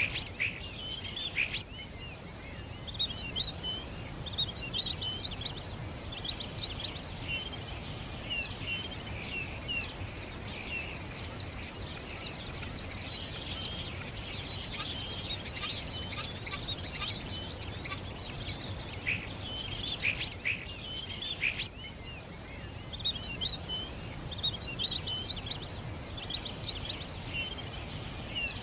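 A flock of small birds chirping and twittering together, many short high chirps overlapping, over a steady low background rumble.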